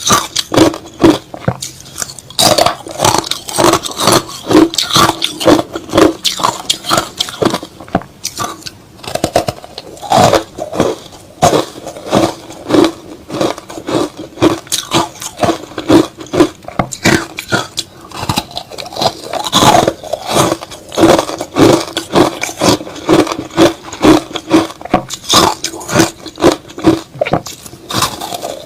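Crushed ice slush being bitten and chewed close to the microphone: a steady run of loud crunches, about two a second.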